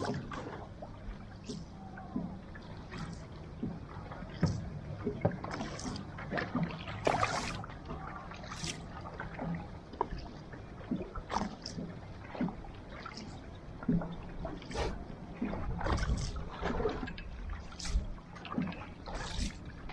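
Paddle strokes splashing in the water from a one-person rudderless outrigger canoe, about one a second and unevenly spaced, over water rushing past the hull.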